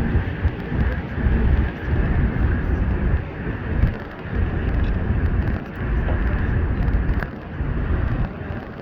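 Route minibus (marshrutka) driving, heard from inside: a heavy, uneven low rumble of engine and road noise that swells and dips.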